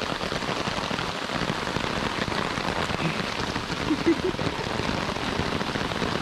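Steady rain falling: a dense, even hiss of many small drop hits.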